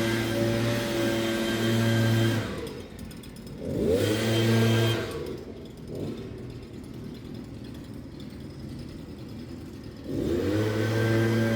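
Lawn mower engine running steadily, then dropping away about two seconds in. It revs back up briefly, falls to a low idle for about five seconds, and rises in pitch back to full speed near the end.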